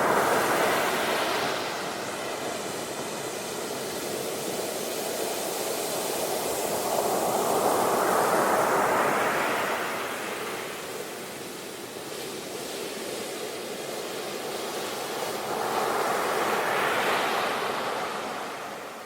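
Ocean waves breaking and washing up the shore, the surf swelling and ebbing in slow surges: three build-ups to a peak, near the start, about halfway through, and near the end.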